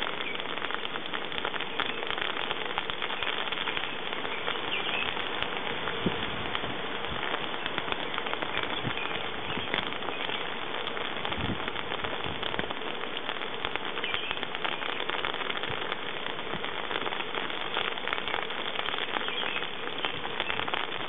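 Rain falling steadily on a gravel drive and its puddles: a dense, even patter of many small drop impacts with no letup.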